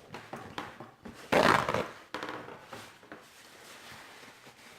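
Close-miked eating noises: one loud, short noisy burst about a second and a half in, with quieter mouth and chewing sounds around it.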